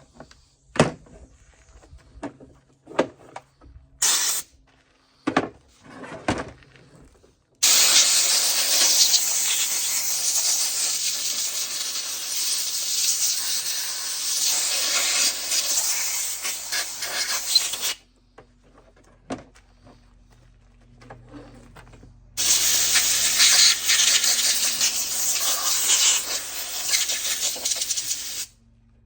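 Compressed-air blow gun blasting sawdust and oily debris out of a chainsaw, in two long bursts of hissing air, about ten seconds and then about six seconds. Before the first burst there are a few short knocks and clicks as the saw parts are handled.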